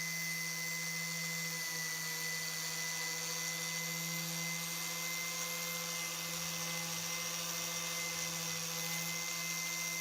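Electric power tool running steadily at constant speed, an even hum with a high hiss over it.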